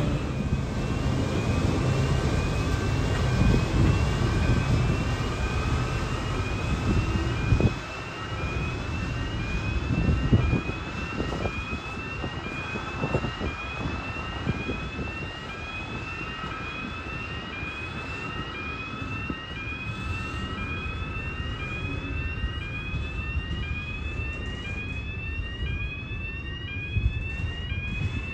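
Container freight train's wagons rolling past with a steady heavy rumble and a couple of loud clunks, over a repeating electronic warning alarm that sounds as a rising chirp about once a second.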